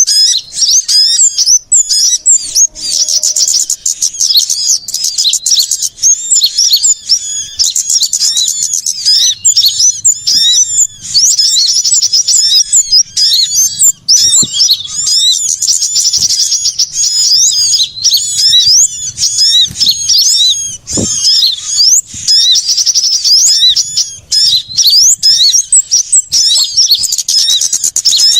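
Dense, unbroken twittering and chattering of many small songbirds, with rapid high-pitched chirps and trills overlapping constantly. It is a bird-luring call recording of agitated small birds, used to draw wild small birds in.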